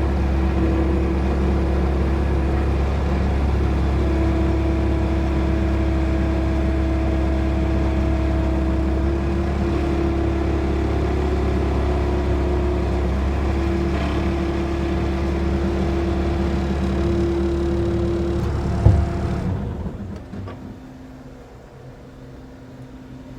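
A motor-driven machine running steadily, a low hum with several steady tones over it. A sharp knock comes about nineteen seconds in, and the machine winds down and stops within the next second.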